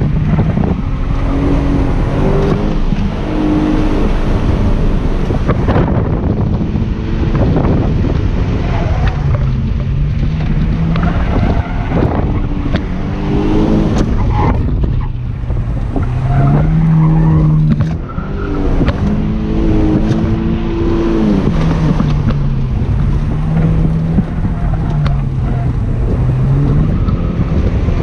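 BMW coupe's engine heard from inside the cabin under hard driving, its pitch rising and falling every couple of seconds as the throttle is pressed and lifted. Steady road and wind noise runs underneath.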